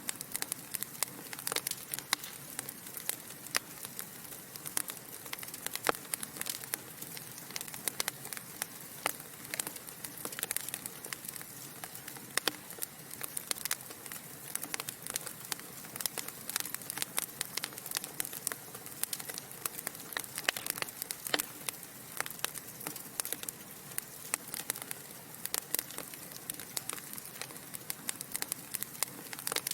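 Wood fire in a fireplace crackling, burning logs giving off dense, irregular sharp pops and snaps over a soft steady hiss.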